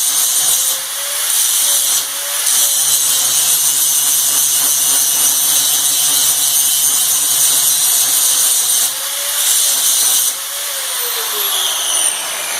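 Power tool grinding metal: a steady high-pitched whine that eases off briefly a few times as the tool is lifted, then winds down near the end.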